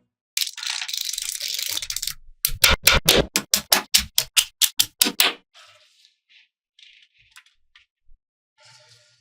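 Small magnetic balls clattering together in a rattle for about two seconds, then a quick run of sharp clicks as balls snap onto each other, about five a second, followed by a few faint clicks.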